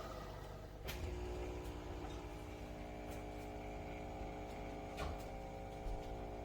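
Nespresso Vertuo Next coffee machine running through a brew cycle: a steady motor whir made of several held tones, with a sharp click about a second in and another around five seconds.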